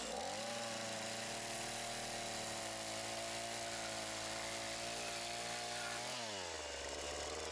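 A small two-stroke chainsaw engine idling steadily. Its pitch dips briefly at the start, then drops to a lower, steady idle about six seconds in.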